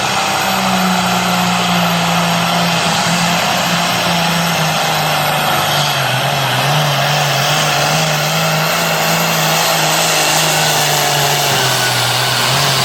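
Turbocharged New Holland pulling tractor's diesel engine running hard under load during a pull down the track. Its pitch sags slowly as the run goes on.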